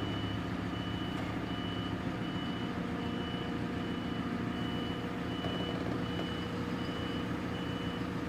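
A vehicle's back-up alarm beeping at an even, steady rate while it reverses, over the low hum of its engine running.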